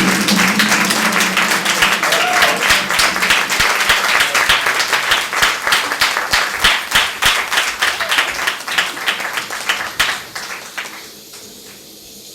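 Audience applauding, the clapping thinning to a few scattered claps and dying away about eleven seconds in.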